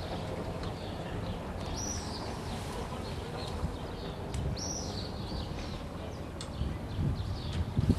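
Small birds chirping a few times, the clearest calls about two and four and a half seconds in, over a steady low outdoor rumble that swells near the end.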